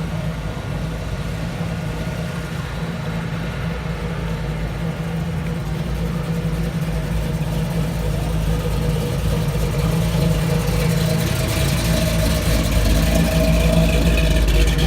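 Car engine running at a low, steady idle-like rumble, growing gradually louder over the last few seconds.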